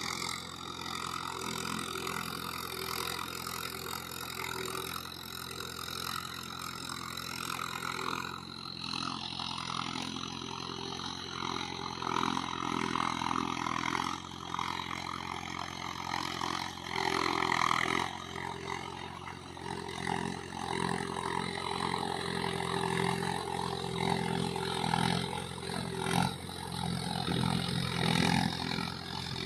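Mahindra Yuvo 415 tractor's diesel engine running steadily throughout, its noise swelling and easing from time to time as it works a field.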